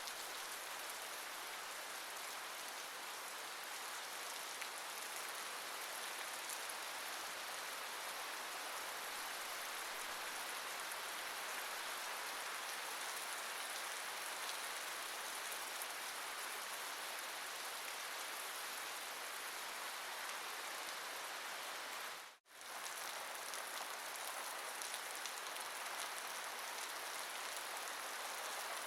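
Steady rain falling as an even hiss of countless drops, briefly dipping to silence for a split second near the end.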